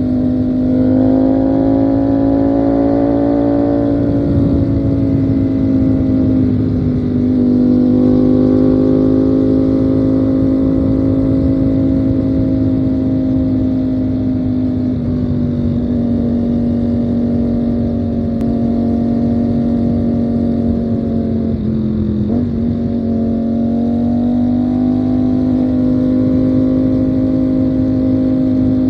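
Ducati Panigale V4 motorcycle's V4 engine running under way at a mostly steady throttle, its note rising and falling gently. The pitch eases off around five seconds in and dips sharply then picks up again about 22 seconds in.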